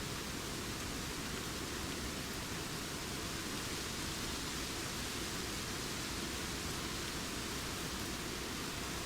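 Wind rustling through forest leaves, a steady even hiss with no birdsong standing out.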